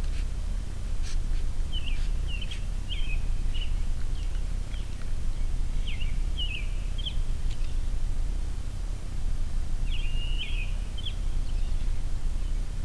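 Short, high bird chirps at intervals, some in quick runs of two or three, over a steady low outdoor rumble; a few faint clicks in the first few seconds.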